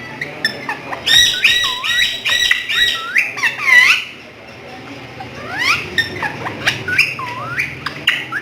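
Pet parrot giving loud, sharp squawking calls in quick succession. A rapid run of calls starts about a second in, then after a short pause another string follows.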